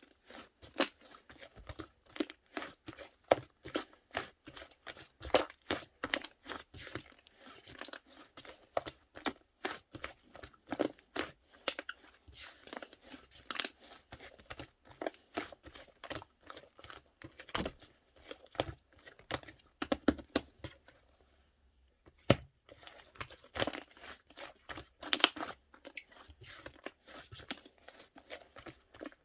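Slime being squished and pressed by hand, giving a dense, uneven run of sharp crackles and pops, with a short pause a little past two-thirds of the way through.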